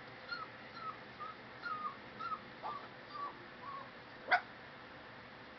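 A kitten crying in a series of short, high squeaky mews, two or three a second, then one louder mew sweeping down in pitch about four seconds in.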